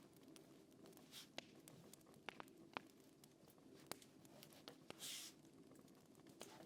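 Faint, sparse, irregular clicks and ticks over a low steady background, with a short soft rustle about five seconds in.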